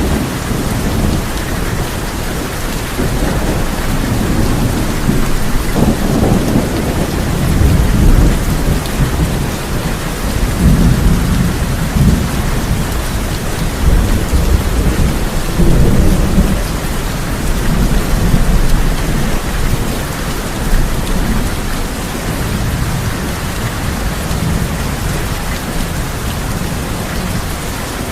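Heavy rain falling steadily on a tin roof, with thunder rumbling low again and again, swelling and fading several times through it.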